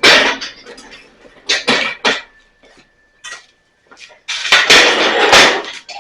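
Metal clanking and clattering: a few separate clanks, then a longer stretch of rattling from about two-thirds of the way in.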